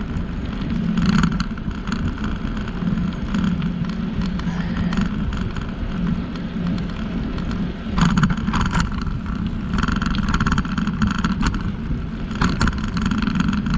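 Steady rumble of a bicycle being ridden along a paved trail: wind on the microphone and tyre noise. There is a short clatter of knocks about eight seconds in.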